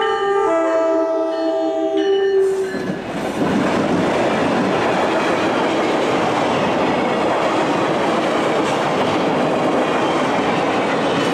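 Locomotive air horn sounding a chord of several notes that stops about two and a half seconds in. After it comes the steady noise of a train rolling past on the rails.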